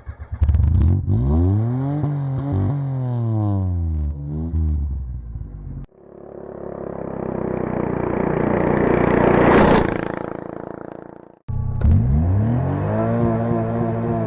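Car engine revving up and back down several times. In the middle, a rushing noise builds for about four seconds and then cuts off suddenly.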